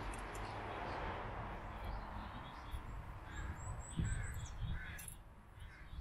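Birds calling: several short calls and a brief high twitter about three and a half seconds in, with a soft knock about four seconds in.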